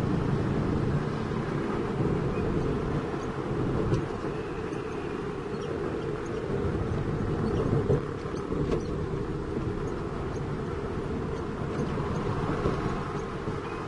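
Heavy diesel engine running steadily, a dense low rumble with a fast even pulse.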